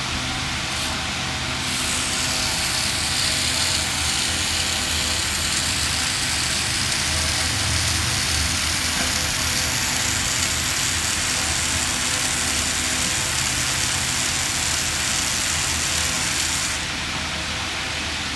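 A small motor running steadily, with a low hum. It gets a little louder and hissier about two seconds in and drops back near the end.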